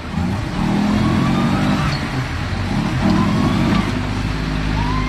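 Off-road 4x4's engine revving hard under load, getting louder about half a second in and staying loud.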